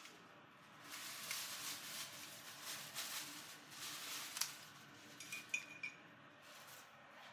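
Kitchen handling noises: a few seconds of rustling and scraping, then several sharp clinks of metal or dishware, one of them ringing briefly.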